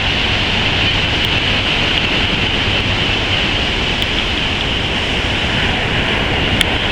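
Steady rushing noise of wind and ocean surf at the shore, with a few faint ticks.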